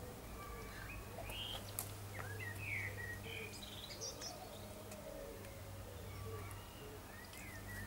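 Garden birds chirping faintly and intermittently, with short high chirps scattered through, over a steady low hum.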